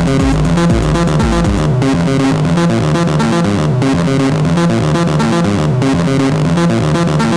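Sequenced synthesizer bass line processed through the Befaco FX Boy effects cartridges, its notes stepping up and down in a repeating pattern. A deep low pulse under it drops out about two seconds in.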